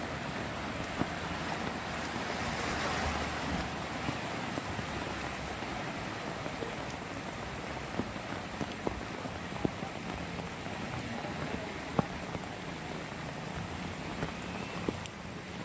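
Heavy rain pouring onto a flooded street: a steady hiss of rain on water, with scattered sharp taps. It grows briefly louder about three seconds in.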